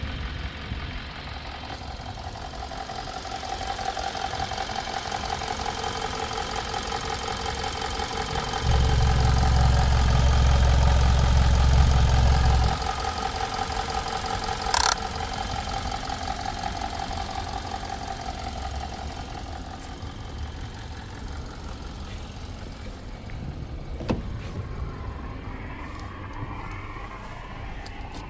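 The 2016 Kia Optima's 2.4-litre G4KJ four-cylinder petrol engine running steadily at idle. It gets much louder and deeper for about four seconds partway through. There is a sharp click about halfway and another near the end.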